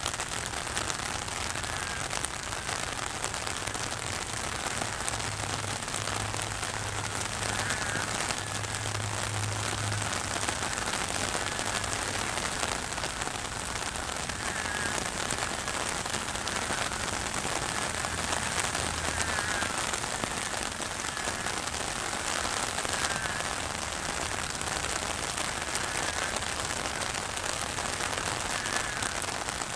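Heavy rain falling steadily on flood water and wet ground, an even hiss of the downpour.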